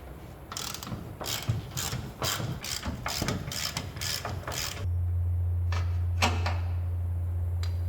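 A hand ratchet wrench working a bolt, clicking in short even bursts of about three a second. About five seconds in the clicking stops and a steady low hum starts.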